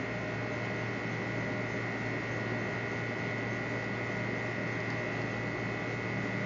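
Portable garment steam iron running as its water comes to the boil: a steady electric hum with a faint even hiss of steam.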